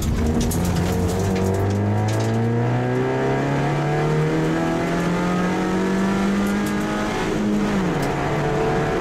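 Kia pro_cee'd rally car's engine heard from inside the cabin, pulling under full load with the revs climbing slowly and steadily, then dropping sharply near the end as the throttle comes off.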